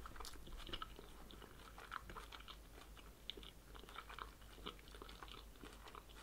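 Quiet, close-miked chewing of a large mouthful of oven-baked chicken-and-vegetable spring roll: irregular soft crackles and mouth clicks.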